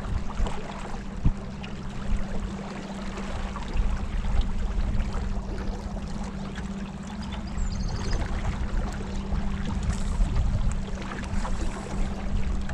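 A boat under way on the river, its motor running with a steady hum, over the rushing of water and wind buffeting the microphone.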